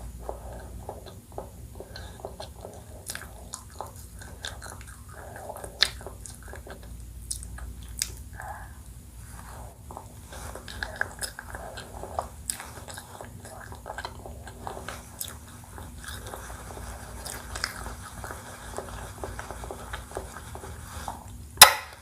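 Close-miked biting and chewing of desserts, with crisp crunching bites and wet chewing throughout. Near the end there is one loud sharp knock.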